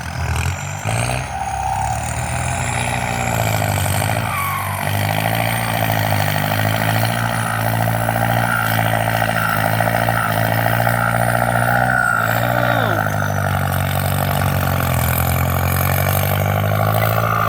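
Kubota M8808 tractor's turbodiesel engine working hard under load while pulling a disc plough, with a high turbo whistle over the engine note. The engine note sags briefly about four seconds in and again near twelve seconds, then picks back up.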